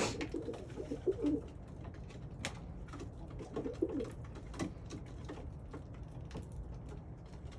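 Domestic pigeons cooing in two low, warbling phrases, one at the start and another about three and a half seconds in, with scattered light clicks and rustles.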